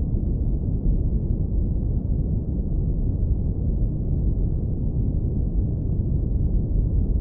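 Steady, deep brown noise low-pass filtered so that only a low rumble is left.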